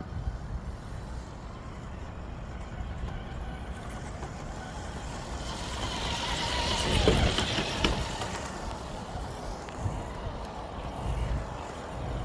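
A road vehicle passing on a highway: its noise swells to a peak about seven seconds in, the pitch drops as it goes by, then it fades away. A low wind rumble on the microphone lies underneath.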